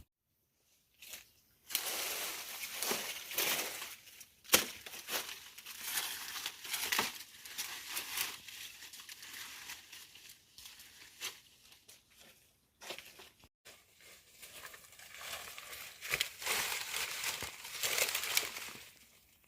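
Dry plant material being crumpled and torn by hand: irregular crinkling and tearing in bursts, with a few sharp snaps and short pauses.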